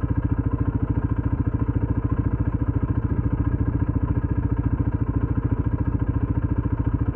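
ATV engine running steadily at an even speed, a rapid regular pulse with no revving.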